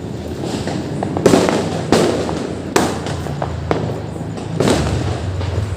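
Diwali firecrackers going off: several sharp bangs about a second apart with crackling in between.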